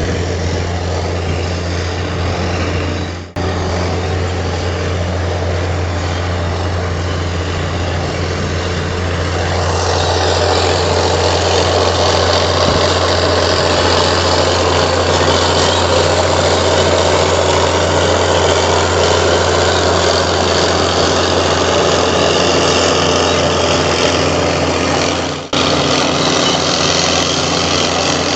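Heavy diesel engine of a Komatsu D58 bulldozer running steadily, growing louder and harsher about a third of the way in. The sound drops out for a moment twice.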